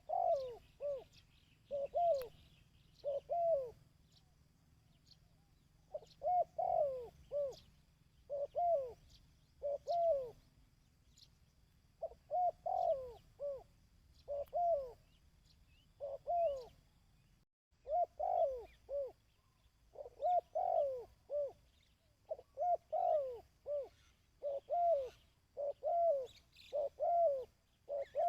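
Spotted dove cooing the 'kích bổi' call: short groups of two or three low coos repeated every second or two, with a few longer pauses.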